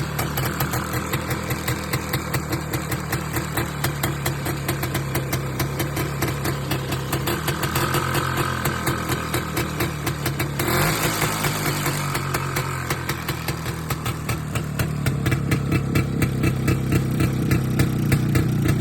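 An engine running steadily with an even, pulsing beat, just after being started; its sound changes about ten seconds in.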